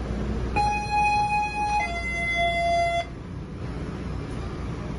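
Low steady running rumble of a moving commuter train, heard inside the coach. About half a second in, a two-note falling tone sounds over it: a higher note for just over a second, then a lower one for about as long, cutting off sharply.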